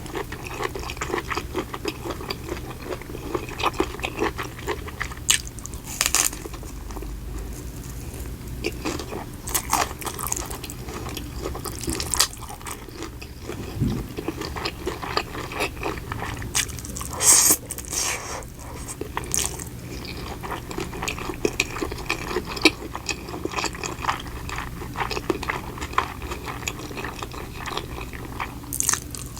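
A person chewing and biting food close to the microphone: wet mouth sounds and clicks, with a few louder crunchy bites scattered through, over a faint steady low hum.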